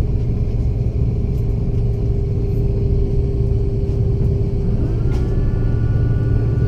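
Airbus A330 cabin noise: a steady low rumble with a steady hum. About five seconds in, a set of whining tones rises and then holds steady as a jet engine spools up during engine start.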